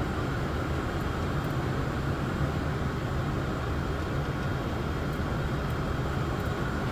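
Steady airflow and engine noise inside a Boeing 747 cockpit on final approach, an even noise heaviest in the low end.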